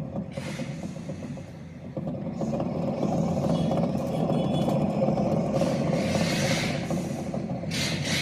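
Fiat Uno on the move with a steady drone from the rear wheel, the sound of a worn rear wheel bearing, over rising and falling road noise.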